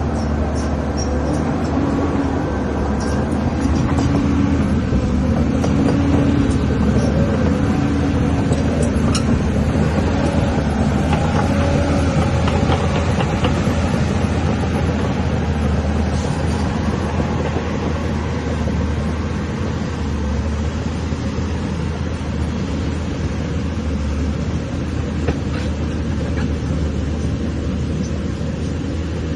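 Caterpillar 320D hydraulic excavator's diesel engine running steadily under digging load, its note wavering up and down during the first several seconds.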